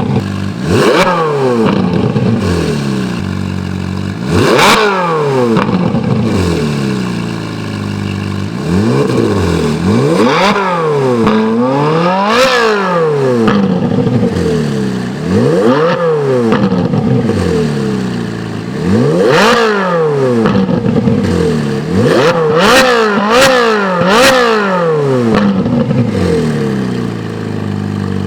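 Ferrari 458 Italia's V8 with an Akrapovic exhaust, revved about a dozen times, each rev climbing and falling back to idle. Sharp cracks come at the top of several revs.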